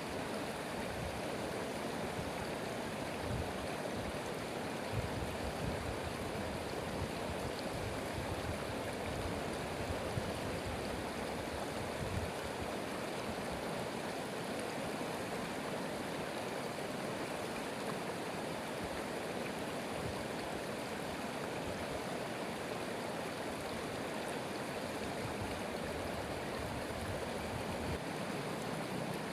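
Stream of running water flowing steadily, an even rushing sound with no let-up.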